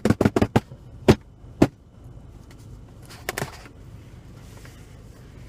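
End of a quick drum roll tapped out by hand: a fast run of sharp taps that stops about half a second in, two more single taps, and a brief sound about three seconds in, over a low steady hum.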